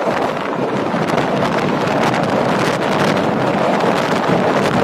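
Passenger train running at speed into a short tunnel, heard from an open coach doorway: a steady rattle and rumble of the coach on the track, with wind buffeting the microphone, a little louder about a second in.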